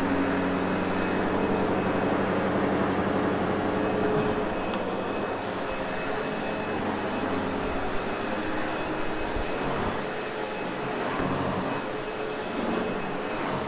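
Sebo X8 upright vacuum running steadily over carpet: a continuous motor hum with a faint high whine held throughout.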